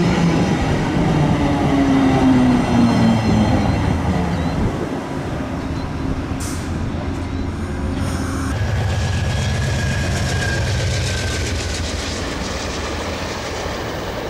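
Via Rail passenger coaches rolling past slowly as the train pulls into a station, steel wheels running on the rails. Squealing tones fall in pitch over the first few seconds, and a thinner, higher steady tone takes over later on.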